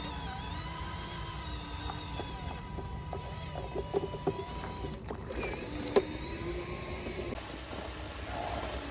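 Electric motors of radio-controlled construction models whining, the pitch wavering up and down over a low rumble, with a few sharp clicks and knocks about halfway through.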